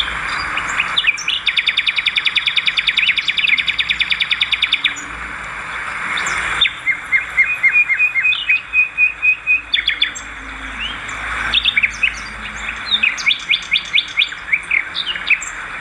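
Swiftlets' chirping calls in fast, even trains of high twitters over a steady hiss, breaking off and starting again abruptly several times.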